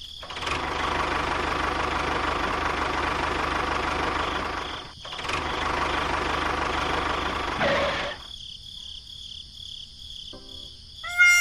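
A small motor runs steadily, breaks off briefly about five seconds in, starts again, and stops about eight seconds in.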